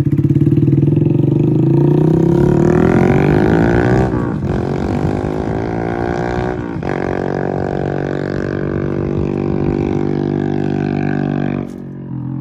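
Honda Grom's single-cylinder engine through a Vance and Hines Hooligan exhaust, accelerating with its pitch rising. It breaks off twice as it shifts up, about four and seven seconds in, then holds a steady note and drops in level near the end.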